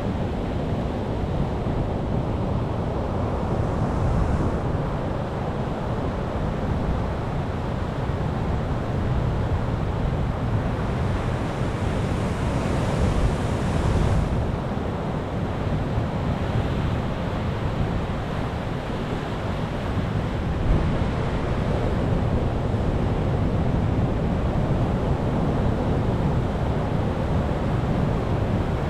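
Ocean surf breaking and washing on a beach, a continuous rushing wash with one louder, hissier wave about halfway through.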